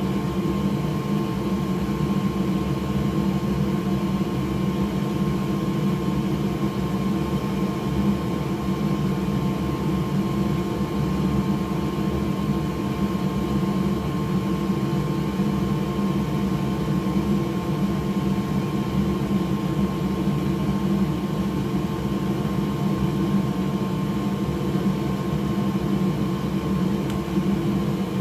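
Steady whir of a small electric fan motor, with a constant hum, that runs without change.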